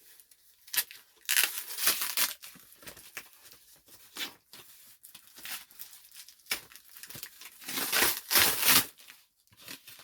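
Wrapping paper being torn and ripped off a gift in irregular bursts, with crinkling between rips; the loudest tearing comes about a second and a half in and again near the end.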